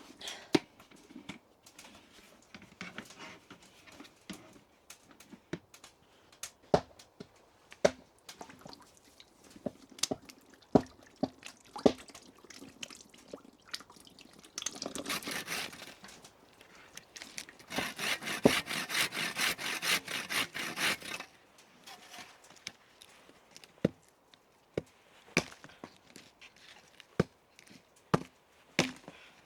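Scattered knocks and clicks of objects being handled. About fifteen seconds in there is a short rasp, then a few seconds of fast, even scraping, like sawing or rubbing.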